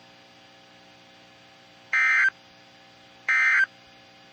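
Emergency Alert System SAME end-of-message data bursts: two short, identical blasts of buzzy digital modem tones about 1.3 seconds apart, the code that marks the end of the alert.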